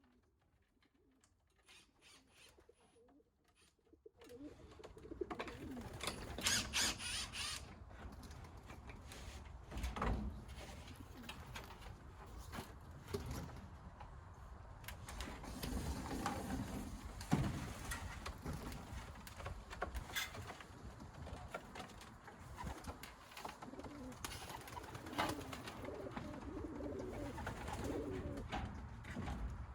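Racing pigeons cooing, low rolling coos coming and going, with scattered sharp taps and knocks. Faint for the first few seconds, then steady from about four seconds in.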